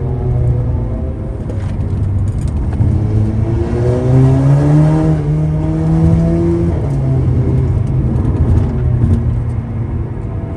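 Tuned Audi TT's engine pulling hard up a twisty road: the revs climb for about four seconds, drop back about six and a half seconds in, then hold lower as the car goes into the next corner.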